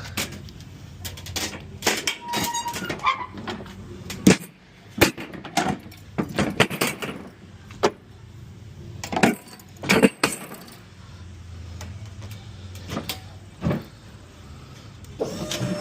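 Irregular metal clanks, knocks and rattles of delivery carts being handled and rolled on a box truck's lift gate, over a low steady hum.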